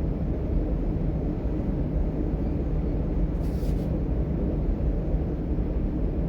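DB Class 425 electric multiple unit running between stations, heard from inside: a steady low rumble of wheels and running gear. A short hiss comes about halfway through.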